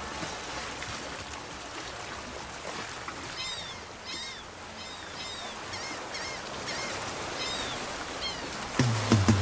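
A small bird calls a short arched chirp over and over, about two a second, over a steady outdoor hiss. Music comes back in near the end.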